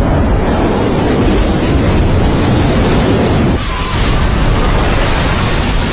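Loud wind buffeting the microphone over the rush of sea surf, a steady noisy roar with a heavy low rumble that shifts slightly about three and a half seconds in.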